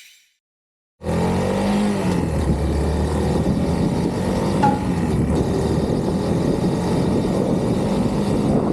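Suzuki VanVan 200's single-cylinder engine running steadily, starting about a second in after a moment of silence, its pitch dipping slightly soon after it begins.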